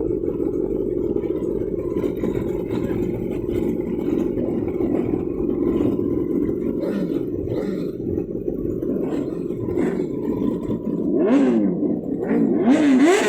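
Motorcycle engines running steadily together, then revved hard a few times near the end, the pitch climbing and falling with each blip of the throttle.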